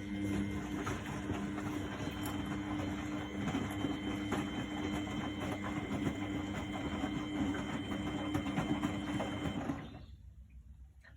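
1999 Miele Novotronic W828 washing machine running in its Cotton 60 wash: a steady motor hum with rough churning noise, which starts suddenly and stops about ten seconds in.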